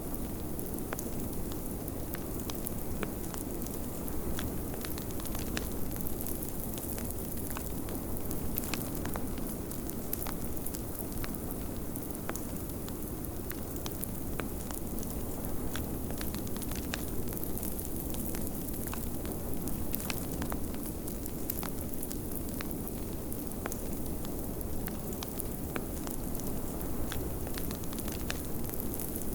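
Wood fire crackling with frequent small pops, over a steady rush of low blizzard wind that swells and eases slowly.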